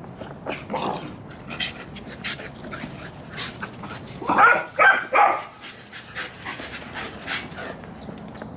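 Golden retriever vocalizing in play, with three loud bark-like calls in quick succession about four to five seconds in, amid many shorter, quieter sounds.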